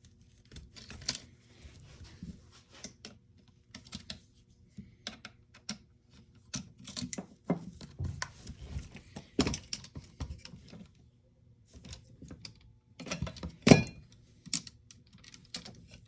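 Irregular clicks, knocks and light scraping of hard plastic and metal parts being handled and pried at while an airsoft rifle's front handguard is worked loose during disassembly, with one sharper knock near the end.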